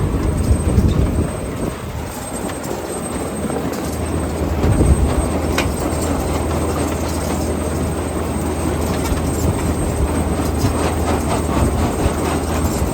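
Grimme Varitron 270 self-propelled potato harvester running while lifting potatoes: a steady engine drone under a dense, constant rattle of the machine's conveyors and cleaning units.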